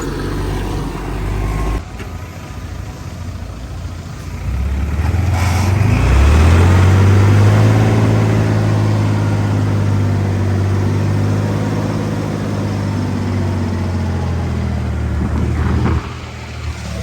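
Heavy diesel engine of earthmoving machinery working under load. It revs up about four to six seconds in, holds a loud steady note, then drops off abruptly near the end.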